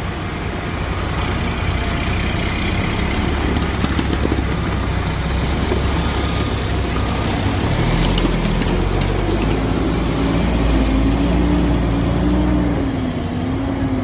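Diesel engine of heavy construction equipment running steadily. About halfway through, the engine speed picks up and its pitch wavers up and down.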